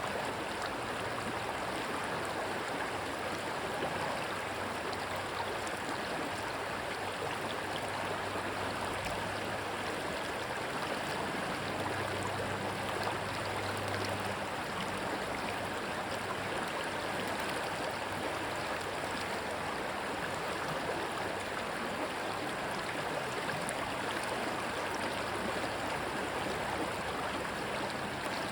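Steady rushing water of a stream, an even hiss of flowing water with no breaks. A faint low hum comes and goes underneath.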